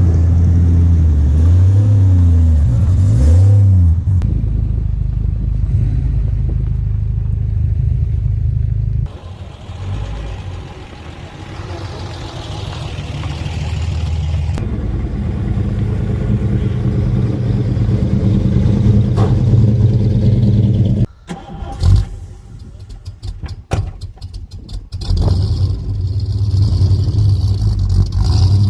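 Car engines running and being revved, the pitch rising and falling in the first few seconds. The sound drops suddenly twice. Near the end, a run of short knocks and clatter gives way to an engine running again.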